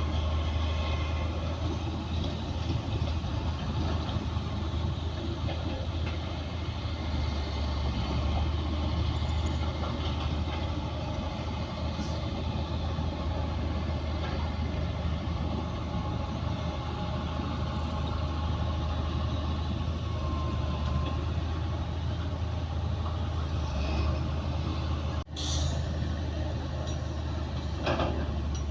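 Bulldozer's diesel engine running steadily under load with a strong low drone. The sound drops out for an instant about 25 seconds in and comes straight back, followed by a few short clanks near the end.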